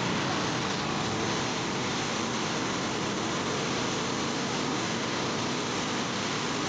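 Steady rush of water pouring over the dam, an even hiss with no breaks.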